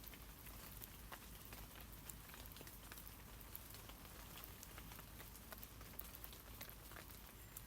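Rain falling on tree leaves: a faint steady hiss strewn with many small, irregular drop ticks, over a low steady rumble.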